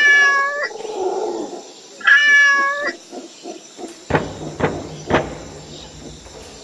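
A child's voice meowing like a cat twice, each call under a second long. From about four seconds in, about four sharp beats on a small hand drum, roughly two a second.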